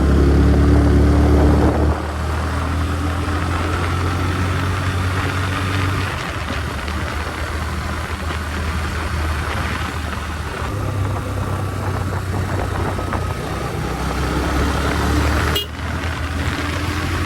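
Motorcycle engine running steadily during a ride, under a broad rush of wind and road noise, louder for the first couple of seconds, with a brief sharp click or cut near the end.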